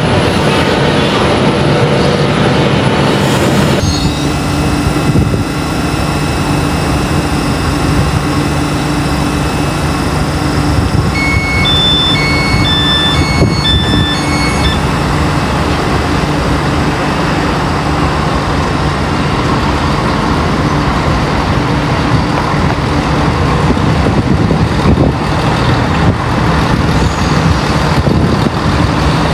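A train's engine running steadily at a station platform, its note shifting slightly about four seconds in. Midway, a series of short electronic beeps sounds for about four seconds, typical of a train's door-closing warning.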